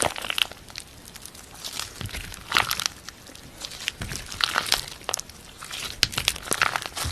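Slime being squeezed and stretched by hand, giving clusters of sticky crackling and popping about every two seconds with quieter squishing between.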